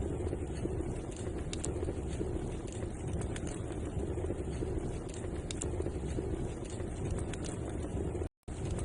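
Fireplace fire burning with a steady low rush and scattered small crackles and pops. The sound cuts out completely for a moment near the end.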